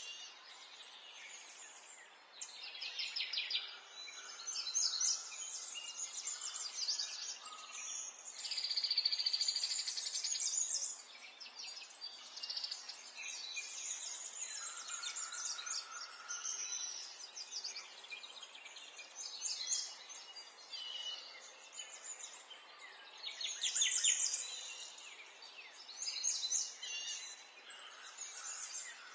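Several songbirds singing at once, overlapping rapid trills and chirps, with louder phrases coming and going every few seconds.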